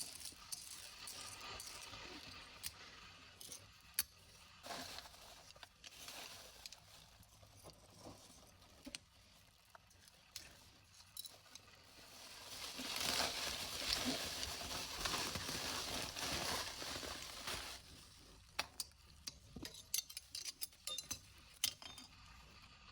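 Small hard pieces of beach debris, glass among them, clinking and tapping as they are handled, with scattered sharp clicks throughout. A longer rushing hiss swells up about halfway through and fades out a few seconds later.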